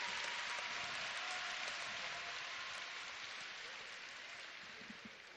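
Arena crowd applauding a gymnast's landed rings dismount, the clapping dying away steadily.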